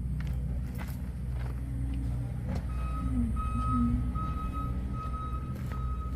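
A car's engine runs at a steady low idle. About halfway in, a high electronic beep starts repeating, a little more than once a second.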